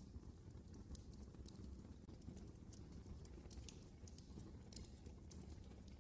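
Wood fire crackling faintly in a fireplace: irregular sharp pops and snaps over a low, steady rumble.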